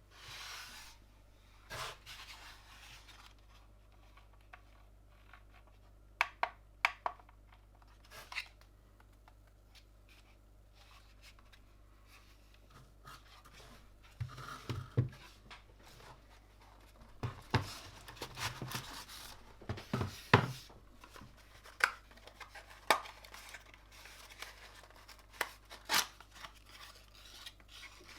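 Hands handling keyboard kit parts and packaging: scattered sharp clicks and taps with short rustles. The clicks are sparse at first and come more often in the second half.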